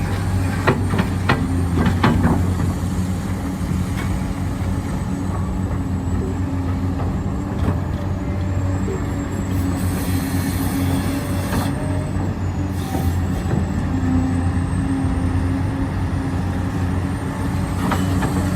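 Electric motors and plastic gearboxes of 1:14 scale RC construction machines whirring steadily, with a high whine that dips and rises in pitch. A few sharp clicks in the first couple of seconds.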